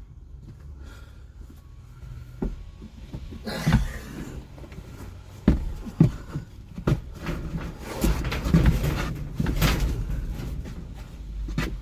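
Irregular knocks and clunks of objects being handled, with stretches of scraping and rustling in between.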